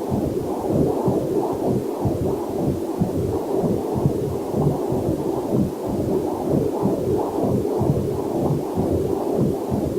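Fetal Doppler heart monitor: a fast, steady heartbeat pulse, with a faint waterfall mixed in underneath.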